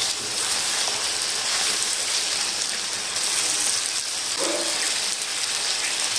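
Chicken and bitter gourd masala sizzling with a steady hiss as it is fried down (bhuna) in a kadhai, stirred with a silicone spatula.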